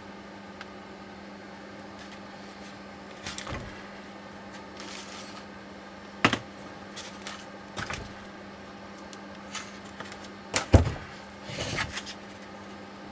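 Scattered clinks and knocks of hand tools and metal parts being handled, with a short scraping rattle, over a steady low hum. The loudest knock comes about three-quarters of the way through.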